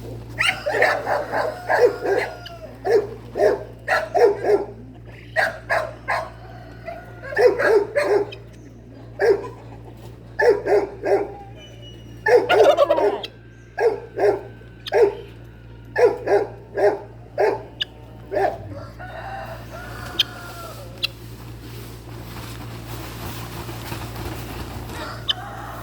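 Domestic fowl calling: loud, harsh calls repeated in quick runs of several notes, which stop about eighteen seconds in. A steady low hum runs underneath.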